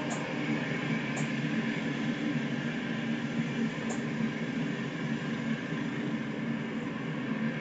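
Train passing, a steady rumble of rolling railcars on the track, with a couple of faint high squeaks about one and four seconds in.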